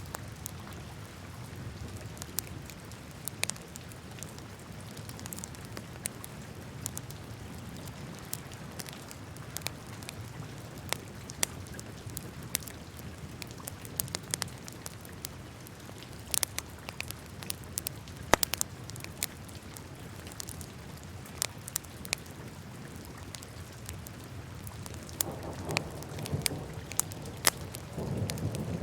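Wood fire in a fireplace crackling, with frequent sharp pops and snaps over a steady low rumble of the flames. One pop at about eighteen seconds is clearly louder than the rest, and the low rumble swells near the end.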